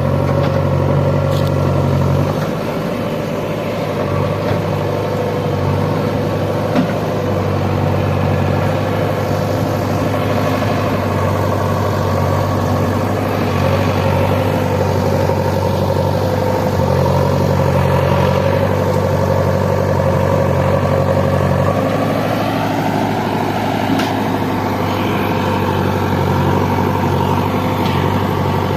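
Diesel engines of a JCB 3DX backhoe loader and a John Deere tractor running steadily, the low engine note dropping and coming back several times as the load changes, with a note that climbs about two-thirds of the way through.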